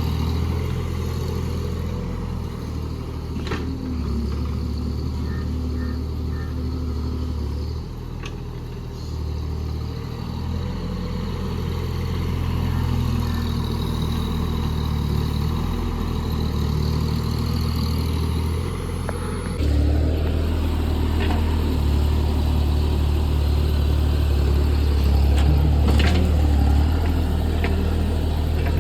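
JCB JS30 Plus mini excavator's diesel engine running under working load, its note shifting as the hydraulics are worked and stepping up louder about two-thirds of the way through, with a few sharp knocks.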